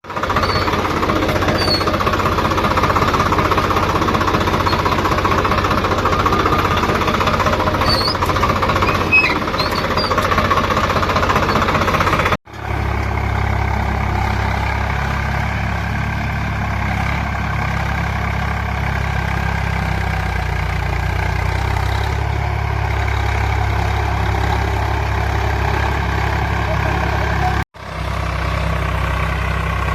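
Tractor engine running steadily, heard in three stretches that break off sharply about 12 and 28 seconds in; the first stretch carries more mid-pitched clatter than the later ones.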